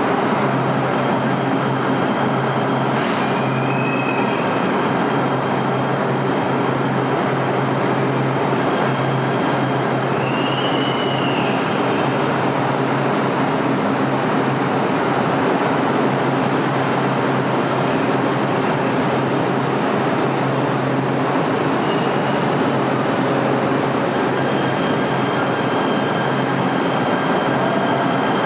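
LA Metro light rail train running: a steady, loud rumble with a constant low hum, and two brief high whines that rise and fall, about four and eleven seconds in.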